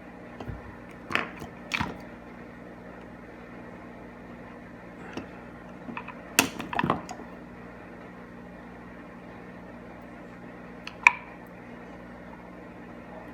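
Scattered short clicks and scrapes of small parts and a tool being handled in hand work, the sharpest click about eleven seconds in, over a steady low hum.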